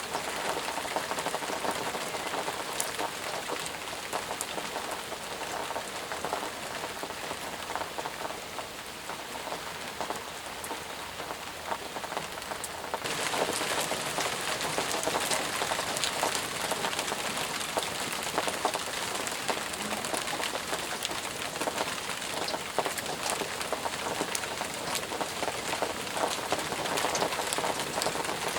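Steady, intense rain falling, with many separate drops striking close by. About halfway through it turns suddenly louder and brighter.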